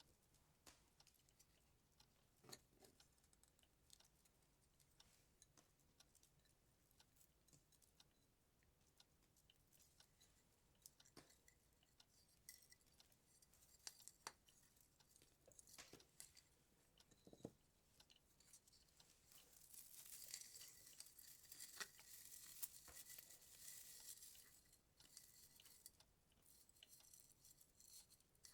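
Christmas tree ornaments being handled, very faintly: small scattered clicks and taps, with a stretch of crinkly rustling from about twenty to twenty-five seconds in.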